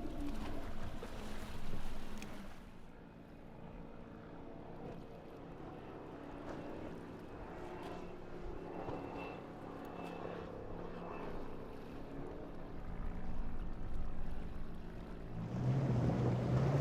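Motorboat engines droning steadily, with wind on the microphone; a louder, closer engine drone comes in near the end.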